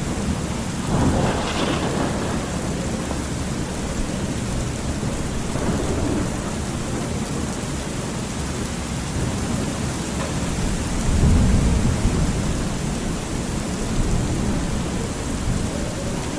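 Thunderstorm ambience: steady rain hiss with rolling thunder. A crackling peal comes about a second in, and a deep low rumble swells around eleven seconds.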